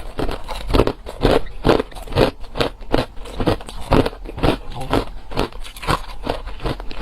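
Hard ice being chewed close to the microphone, with steady crunches about twice a second.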